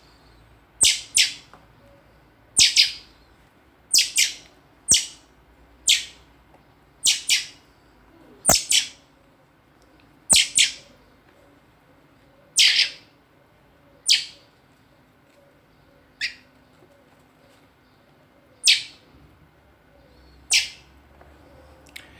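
A very young bird chirping: short, sharp, high calls, often in quick pairs, repeated every second or two with brief gaps between them.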